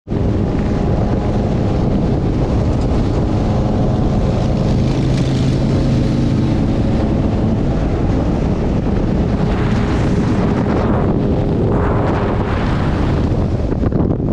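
Steady low rumble with a few held tones, and wind noise on the microphone that swells in surges near the end.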